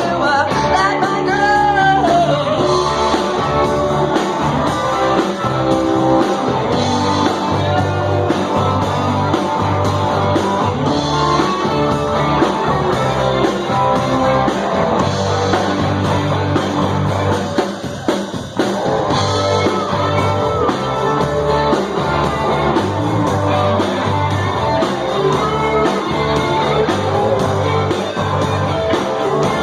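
Live garage rock band playing: fuzzy electric guitar, bass and drum kit with a steady beat and a singing voice, and a brief drop in the sound about two thirds of the way through.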